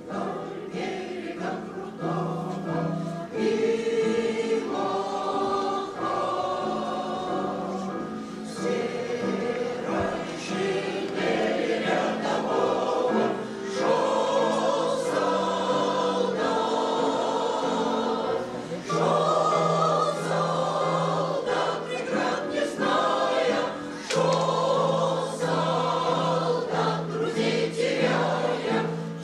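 Choir singing a song in long held notes.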